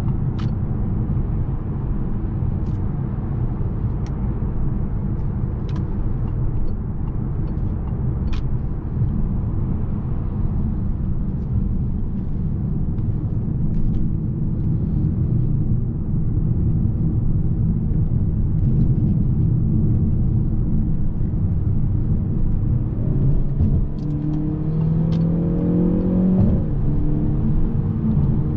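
Peugeot 508 PSE plug-in hybrid on the move, its 1.6-litre turbocharged four-cylinder petrol engine running steadily over road rumble. Near the end the engine note rises as it accelerates, then drops at an upshift.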